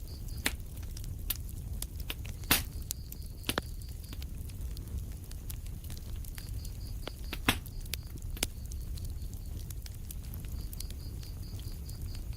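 Wood fire in a fireplace crackling, with a steady low rumble of burning and frequent small crackles. Two louder pops stand out, about two and a half seconds in and again about five seconds later.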